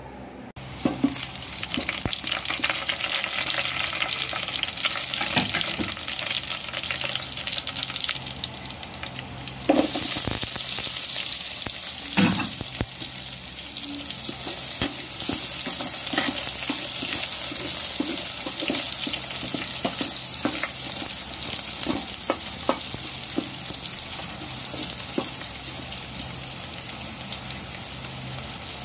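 Garlic and chopped onion sizzling in hot oil in an aluminium pot. The sizzle starts about a second in and gets louder about ten seconds in. A utensil stirring the pot gives scattered clicks.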